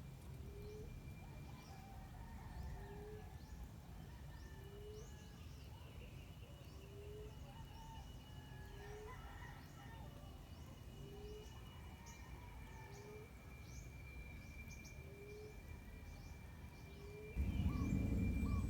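Faint, low cooing of an emerald dove: a short rising note repeated about once a second. Small birds chirp high above it and a steady high-pitched tone runs underneath. Music comes in near the end.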